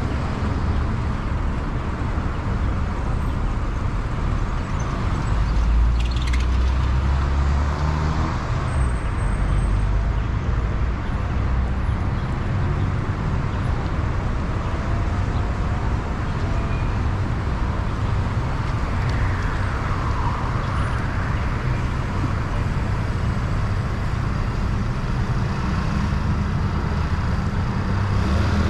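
Car driving along a highway: steady road and engine noise.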